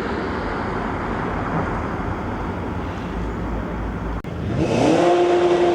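Car driving past with steady tyre and road noise. After a cut about four seconds in, an engine revs up quickly and holds a steady high note.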